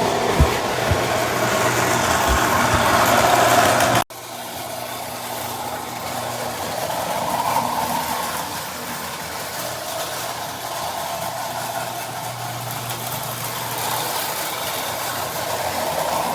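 A large engine running steadily, with a constant low hum and rumble. The sound cuts out sharply about four seconds in and comes back a little quieter.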